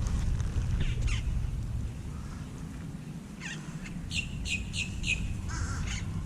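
Birds calling: a quick run of about five short, sharp calls a little after the middle, then one harsher call, over a low rumble.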